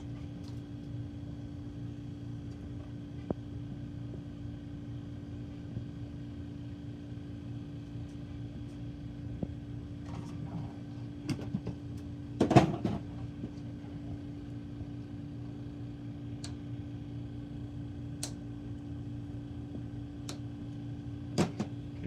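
Steady mechanical hum with a few constant tones, with scattered sharp clicks and small knocks of hand work on the Blizzard machine's wiring and a short clatter about twelve seconds in.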